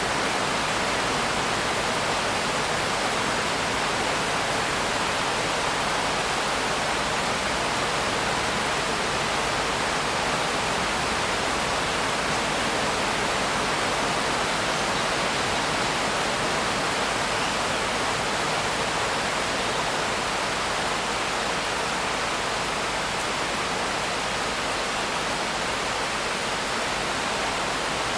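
Steady rain, an even unbroken hiss with no distinct drops or thunder.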